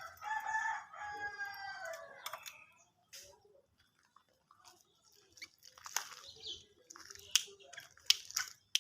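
A rooster crows once, a drawn-out call lasting about two and a half seconds. Then, from about five seconds in, comes a scatter of sharp splashes and flicks of water from a small bird bathing.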